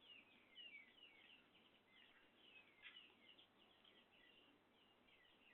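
Small bird chirping faintly, a quick run of short high chirps, one slightly louder near the middle.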